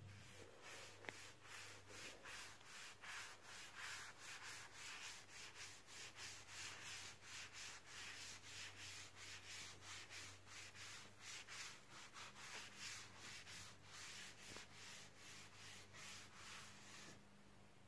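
Faint hand sanding of wood: rhythmic back-and-forth rubbing strokes, about three a second, that stop near the end.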